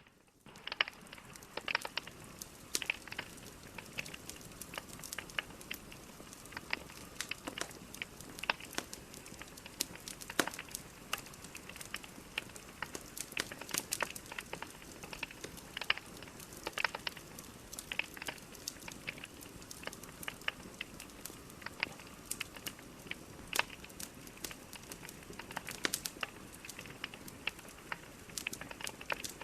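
Burning logs in a fireplace crackling: a steady soft hiss dotted with irregular sharp pops and snaps, several a second, some much louder than others.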